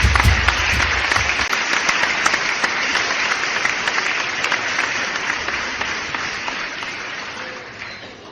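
Audience applauding, a dense patter of many hands clapping that slowly dies away over the last few seconds.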